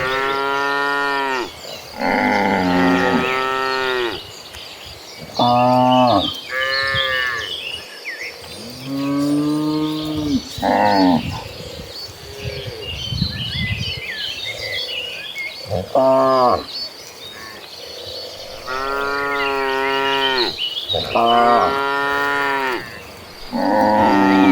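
A herd of cattle mooing, one call after another, each half a second to two seconds long and often overlapping, some deep and some higher-pitched.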